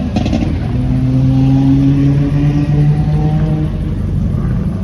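A car engine revving and held at high revs, its pitch climbing slowly for about three seconds, over a steady low rumble, with a short sharp click right at the start.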